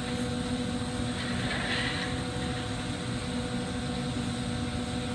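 Steady roar of a glassworking shop, torch flame and ventilation running together, with a constant low hum.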